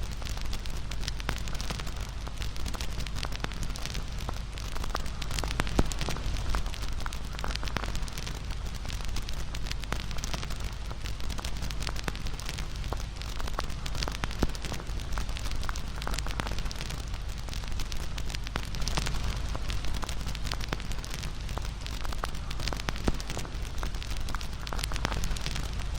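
Wood fire crackling steadily, with dense small snaps over a soft hiss and an occasional louder pop.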